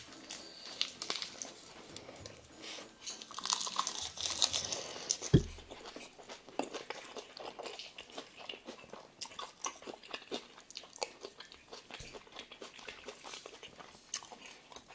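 Close-miked eating: crackly crunching and chewing of a bite of rice and pork kimchi stew wrapped in crisp roasted seaweed (gim). The crunching is densest a few seconds in. A single low thump follows about five seconds in.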